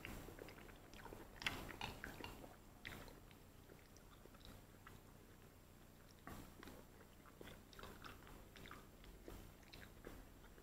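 Faint close-miked mouth sounds of a man chewing spoonfuls of macaroni and cheese with broccoli: soft wet clicks and smacks scattered through, a little louder about one and a half to three seconds in and again from about six to nine and a half seconds.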